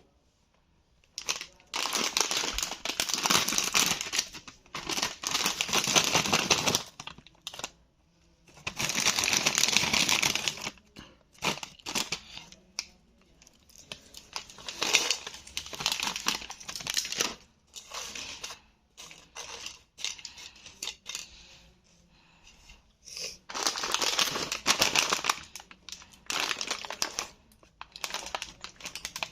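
A Bingo Mad Angles chip packet crinkling as it is handled, in several bursts lasting a few seconds each with short pauses between.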